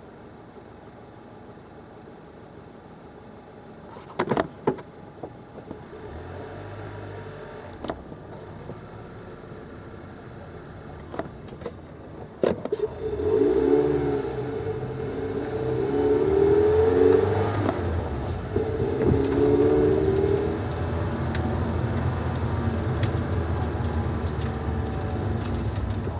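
2019 Mazda MX-5 RF's 2.0-litre four-cylinder heard from inside the cabin: a quiet idle with a few sharp clicks about four seconds in, then the engine rises and runs louder as the car pulls away and accelerates, from about thirteen seconds on.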